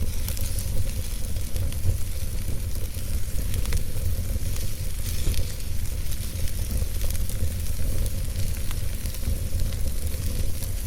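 Fire burning in a fireplace: a steady hiss and low rumble with scattered small crackles and pops.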